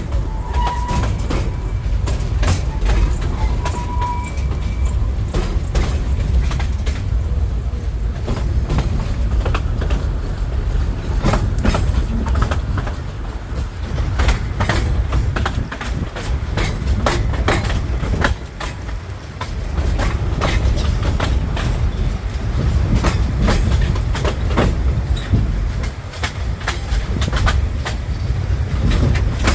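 Mocanita narrow-gauge steam train rolling along the track: a steady low rumble with irregular clattering of the wheels over the rail joints.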